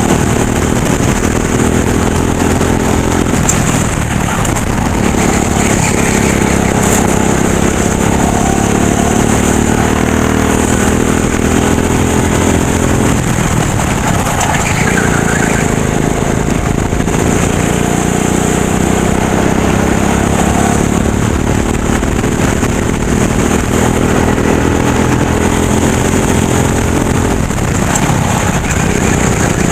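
Go-kart engine running hard during a race, its pitch climbing along the straights and falling off briefly three times as it lifts for corners.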